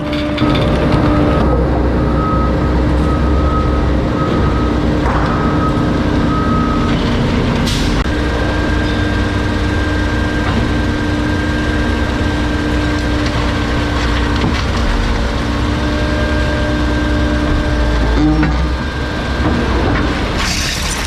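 Bulky-waste garbage truck's engine and hydraulic compactor running with a steady, non-stop hum, with a few sharp knocks as it works the load.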